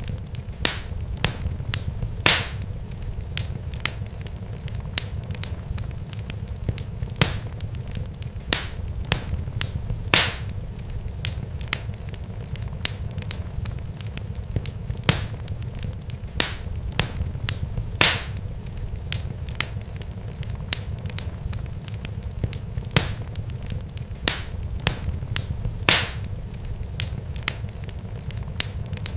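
Irregular sharp crackles and pops, several a second, over a steady low rumble, with a few louder pops standing out.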